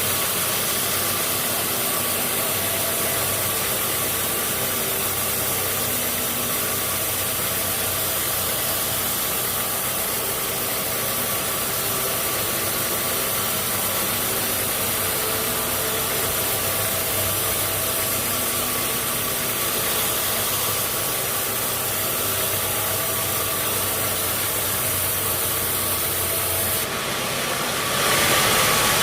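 Sawmill machinery running steadily: a constant engine hum under a noisy wash. The sound changes abruptly and gets louder near the end.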